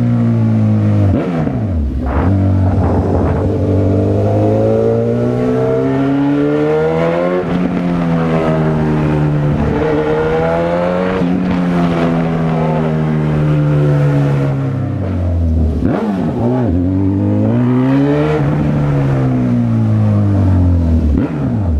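Honda CB1000R motorcycle's inline-four engine under way, revving up and easing off several times as the rider accelerates and rolls off the throttle. The pitch climbs for several seconds, holds, then drops around two-thirds through, and rises and falls again near the end.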